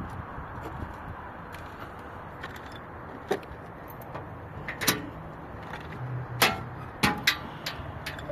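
A handful of sharp knocks and clanks, about five, spread over the second half, the loudest two with a brief ring, over steady background noise.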